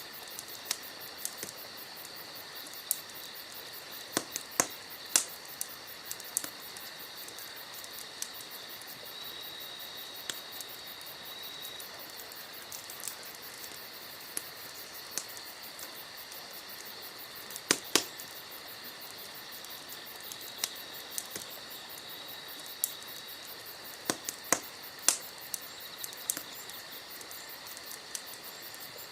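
Campfire wood crackling, with irregular sharp pops, a few of them louder. A steady high insect chirring runs underneath.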